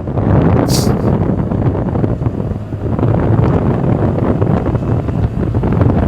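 Wind buffeting the microphone on a moving Honda Navi, over the small motorcycle's engine and road noise, with a brief high hiss just under a second in.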